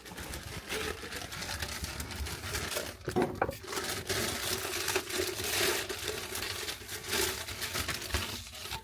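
Plastic packaging crinkling and rustling as it is handled, from a new adjustable basin trap being got out of its bag.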